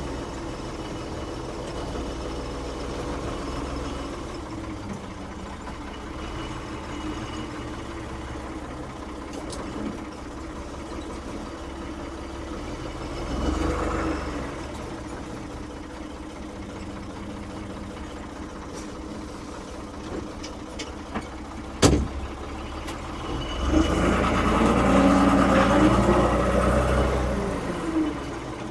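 A 1975 Ford 550 backhoe's diesel engine runs steadily near idle. One sharp knock comes late on, and the engine then runs louder for a few seconds, with its pitch moving as it is worked.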